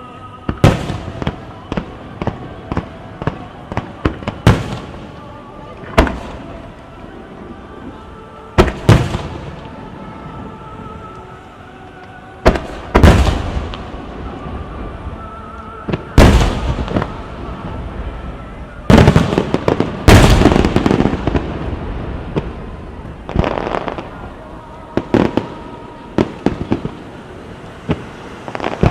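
Starmine fireworks bursting in rapid succession: a string of sharp bangs, with three dense rolls of crackling bursts in the second half. Music from the venue's loudspeakers plays faintly underneath.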